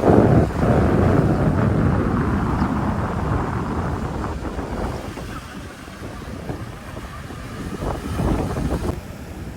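Wind buffeting the microphone over the wash of a rough sea. It is loudest at the start, dies down over a few seconds and picks up again briefly near the end.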